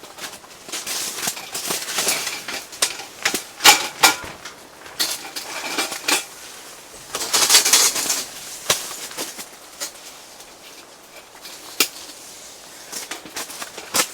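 Close handling noises: a run of sharp clicks and knocks mixed with stretches of rustling, busiest around two to four seconds in and again about eight seconds in.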